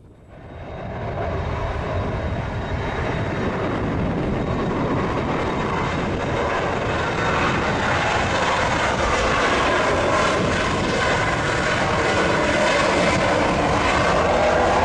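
Boeing 737-200's Pratt & Whitney JT8D turbofan engines, a loud jet rush that swells over the first two seconds, then holds steady and grows slowly louder.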